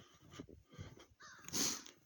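Footsteps crunching through snow in an uneven series, with a short harsh bird call about a second and a half in.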